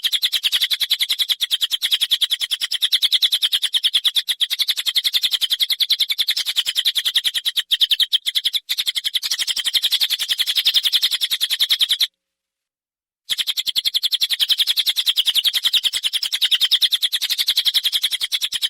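A songbird giving a fast, continuous, high-pitched chattering rattle of rough, rasping notes, the 'besetan kasar' type of call used as tutor song for competition birds. It cuts out completely for about a second past the middle, then carries on.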